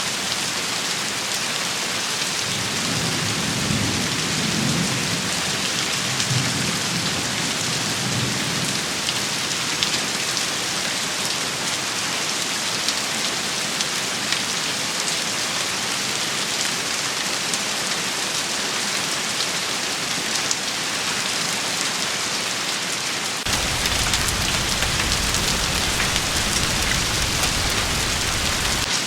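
Steady rain shower hissing and pattering on surfaces, with many fine drop ticks. A low rumble like distant thunder swells and fades a few seconds in. Near the end, a deeper low rumbling layer cuts in suddenly.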